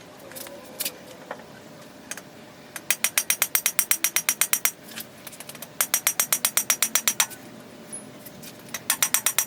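Ratchet wrench clicking in three quick runs, about ten clicks a second, as it turns a cam bearing installer to draw a new cam bearing into its bore in a Ford 292 Y-block.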